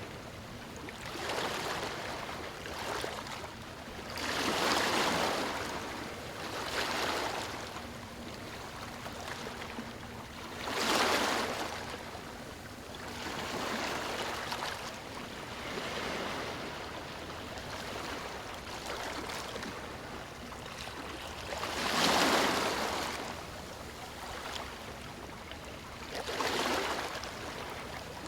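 Small waves breaking and washing over a stony shore, each surge swelling and falling away every few seconds, with the biggest two about a third and three quarters of the way through.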